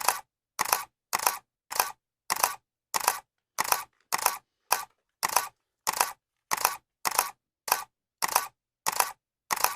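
Camera shutter clicking over and over at an even pace, a little under two clicks a second. Each click is short and sharp, with a quick double snap.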